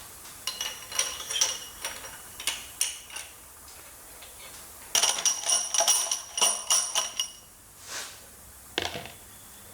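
Steel engine parts clinking and tapping against each other. There are short ringing metallic tones in two clusters, one about a second in and a longer one from about five to seven seconds. These are pushrods and rocker arms being handled and fitted on a Ford 429 V8 under assembly.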